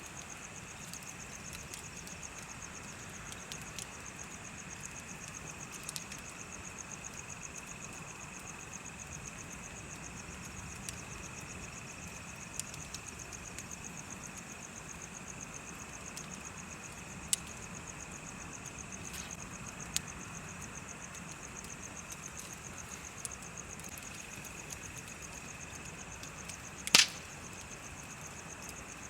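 Bonfire crackling with scattered sharp pops, the loudest a double pop near the end, over a steady chorus of chirping insects with a fast, even trill.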